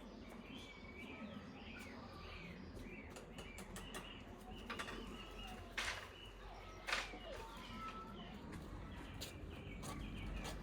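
Small birds chirping repeatedly outdoors, with scattered light clicks and two sharper knocks about six and seven seconds in.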